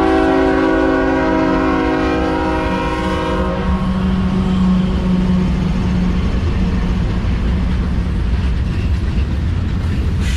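Diesel freight locomotive horn sounding a long chord that stops about three and a half seconds in, over the rumble of the locomotives and passing train. The train keeps rumbling by with a steady engine drone.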